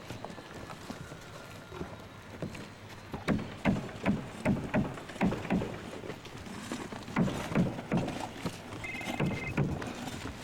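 Hammer striking nails into a roof deck in quick runs of blows, about three a second, with pauses between the runs.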